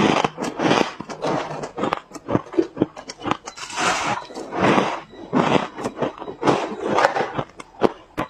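Ice being bitten and crunched between the teeth: a run of sharp cracks and crunchy bursts, about one bite a second.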